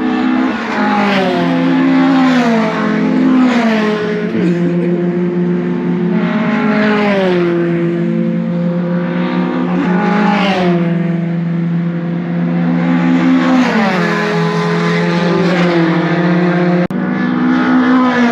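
Racing pickup trucks' engines running hard on track, their pitch climbing, stepping and falling again and again as they accelerate, change gear and lift off.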